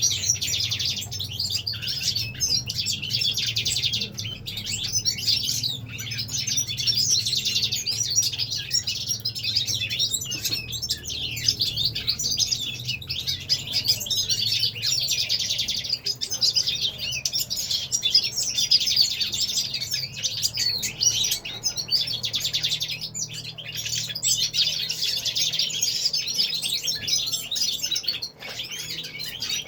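A chorus of small caged songbirds singing and twittering together without pause, many overlapping high chirps and trills. A low steady hum runs underneath.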